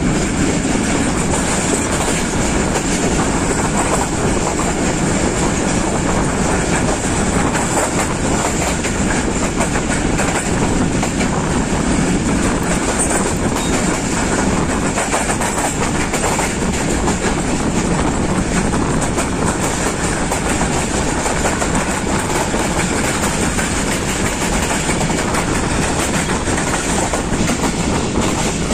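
Moving passenger train heard from an open coach doorway: steady running noise of the wheels on the rails, mixed with rushing air.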